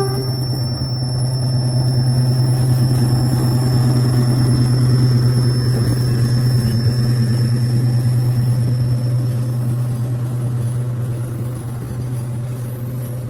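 KAI CC206 diesel-electric locomotive running with a steady low drone that grows louder over the first few seconds and eases off towards the end. A thin high whine sits above it and stops about ten seconds in.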